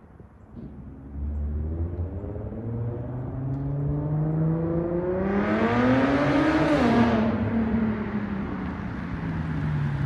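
Infiniti M35h hybrid's V6 engine accelerating through an exhaust with the resonator deleted. The exhaust note rises steadily in pitch and loudness for several seconds, drops off sharply about seven seconds in, then carries on at a lower, steady note.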